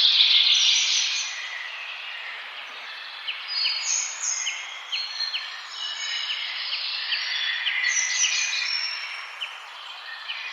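Several songbirds singing and chirping over one another: a dense flurry at the start, then a run of quick repeated short notes through the middle, with other whistles and trills among them.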